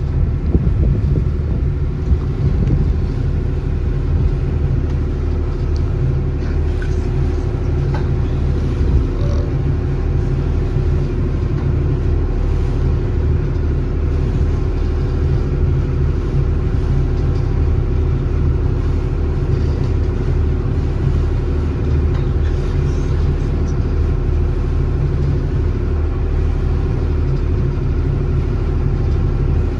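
A small foot ferry's engine running at a steady cruising drone, heard on board, with a constant low hum and no change in pace.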